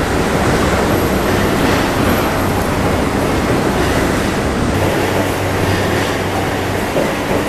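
JR East E235-1000 series electric train passing, its wheels and running gear on the rails making a steady, even noise.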